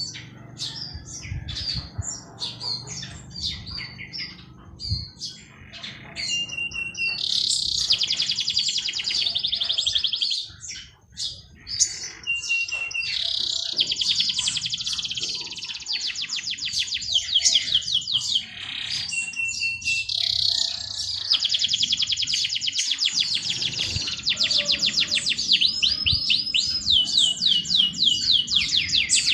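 Songbirds singing: long, fast trills and rapid chirps overlapping, with a short, steady whistled note that comes back every six or seven seconds.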